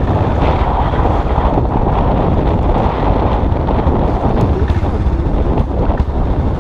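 Motorcycle engine running steadily while riding, with heavy wind buffeting on the microphone.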